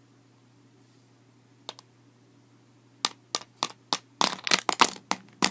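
A quick run of sharp taps or clicks, about a dozen, bunched together in the last two and a half seconds after a near-quiet start.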